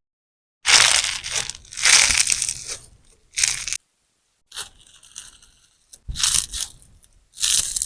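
Large sponge soaked with clear slime being squeezed and pressed by hand, giving about six separate bursts of wet crackling, each lasting up to a second, with short silent gaps between them.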